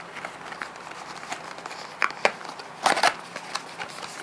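Handling of a cardboard trading-card booster box and its foil packs: scattered light taps and crackles, with a louder rustle about three seconds in.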